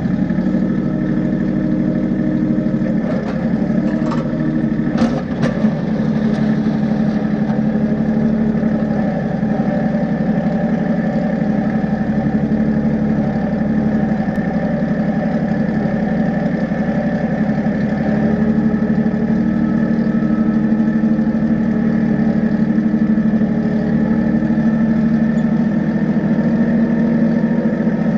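A vehicle engine running steadily at a constant speed, with a few sharp knocks between about three and six seconds in.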